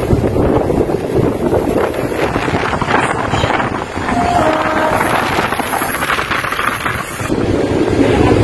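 Mumbai suburban local train (electric multiple unit) running along the track, heard from its open doorway: steady rumble of wheels on rails mixed with wind buffeting the microphone.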